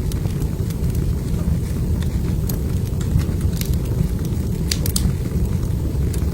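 Wood fire burning in a fireplace: a steady low roar with scattered sharp pops and crackles, a quick cluster of louder snaps about three-quarters of the way through.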